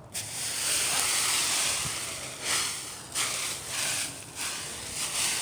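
Dry leaves rustling and scraping as a rake drags and spreads them, in a series of uneven strokes.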